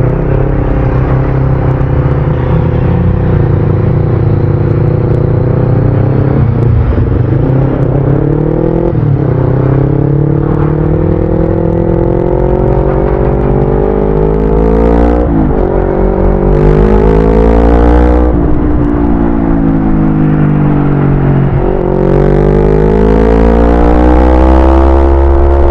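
Yamaha YZF-R25's 250 cc parallel-twin engine on the move, pulling up through the gears: the pitch climbs, drops sharply at each upshift and climbs again. Past the middle it eases off and falls for a few seconds, then rises once more.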